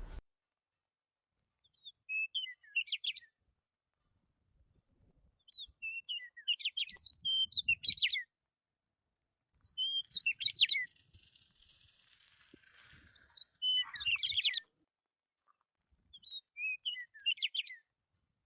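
Bird chirping in five short, similar phrases of quick high chirps and whistled notes, with silent gaps of a second or two between them.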